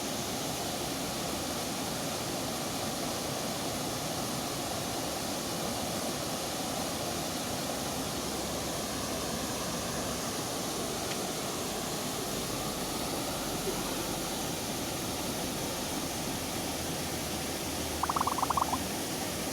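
A steady, even rushing noise, with a brief rapid rattle of clicks near the end.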